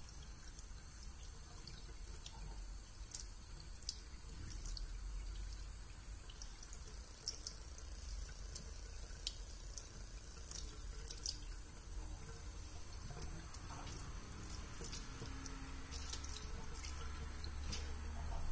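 A thin stream of tap water running into a sink, with small drips and splashes at irregular moments.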